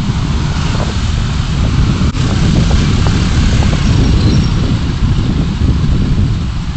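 Car driving, picked up by a dashcam: a steady, loud low rumble of engine and road noise, swelling slightly midway.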